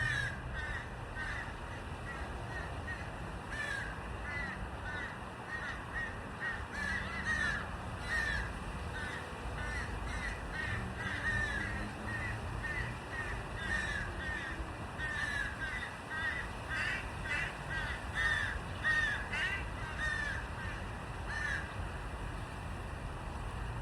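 Birds calling: many short chirping calls, repeated and overlapping, over a low background rumble.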